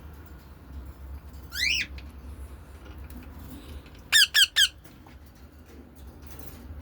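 Bird calls: one rising squawk about a second and a half in, then three short, loud squawks in quick succession about four seconds in, over a faint steady low hum.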